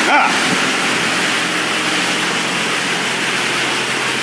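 High-pressure rinse jets of a touch-free car wash spraying a car: a loud, steady hiss of water, with a steady low hum underneath.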